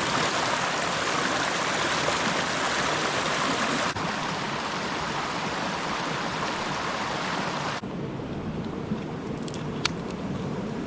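Steady rushing of flowing stream water, with abrupt changes in level about four and eight seconds in, softer after the second. A few faint ticks sound near the end.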